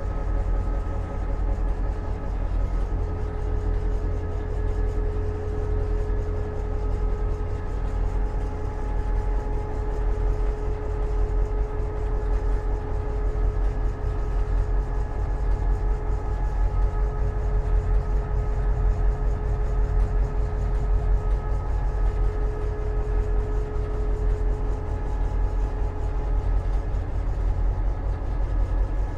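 EMD GP38-2 diesel locomotive heard from inside its cab: the 16-cylinder 645 engine runs with a steady low rumble, and a few steady whining tones sit above it.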